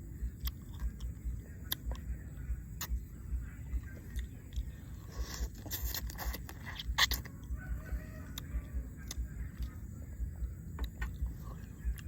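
Close-up chewing of spicy seafood papaya salad and crisp raw vegetables: a steady chewing rhythm of about three bites a second, with crunchy clicks that are thickest around the middle.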